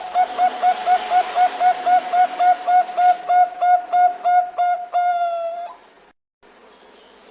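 Zebra dove (perkutut bangkok) calling a fast string of short, clipped cooing notes, about four a second, ending on one longer drawn note, over a steady background hiss.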